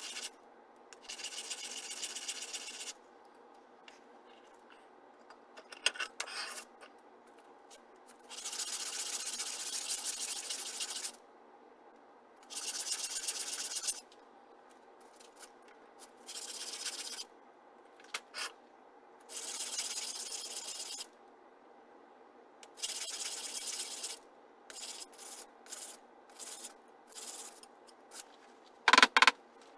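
Hand abrasive work on a metal part, likely part of the aluminum and brass engine block or crankcase, in repeated stretches of one to three seconds with short pauses between them. A few light ticks come late on, and one sharp knock near the end is the loudest sound.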